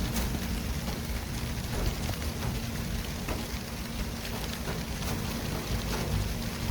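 City traffic ambience: a steady wash of street noise with a low, steady hum running under it and a few faint ticks.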